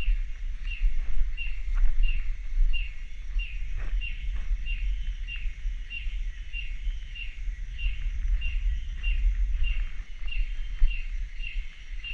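Rainforest ambience: a short high chirp repeating evenly about two and a half times a second, over a steady low rumble and a few soft brushing knocks.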